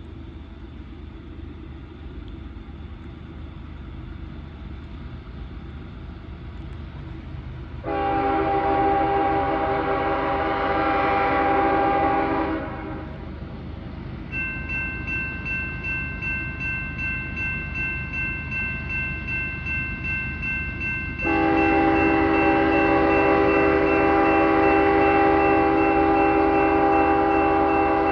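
Freight locomotive approaching with a low rumble that builds, then sounding its multi-note air horn in a long blast about 8 seconds in. From about 14 seconds a high pulsing ringing starts, typical of a grade-crossing bell, and about 21 seconds in the horn blows again and holds to the end over the ringing.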